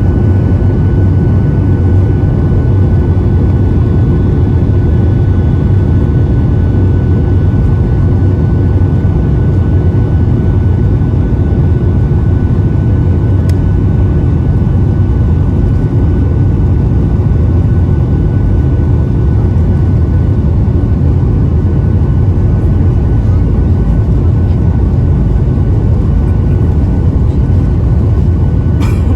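Steady cabin noise of a Boeing 737-800 airliner, its CFM56 jet engines running, heard from inside the passenger cabin: a loud, even rumble with a few faint steady whines above it.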